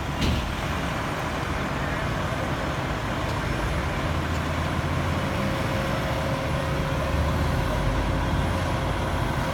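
Heavy vehicle's engine running with a steady low rumble.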